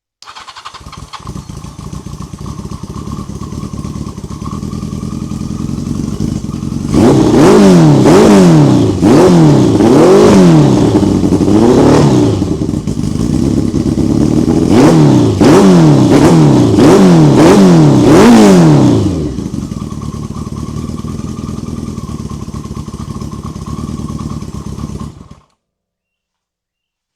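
Yamaha XJ750's air-cooled inline-four engine running through a custom-fabricated exhaust. It idles, then is revved in a series of about ten quick throttle blips, each rising and falling in pitch, then settles back to idle before the sound cuts off suddenly.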